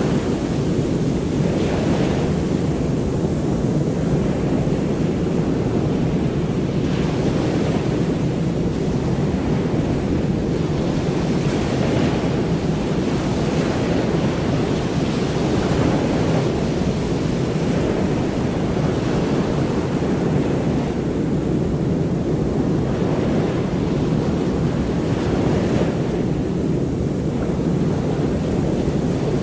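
Ocean surf making a steady, even rushing sound with gentle swells.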